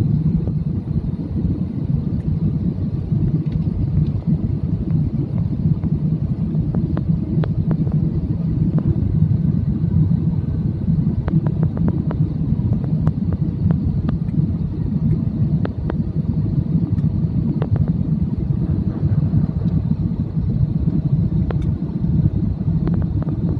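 Airliner cabin noise on the landing approach: a steady low drone of the engines and rushing air, with faint ticks now and then.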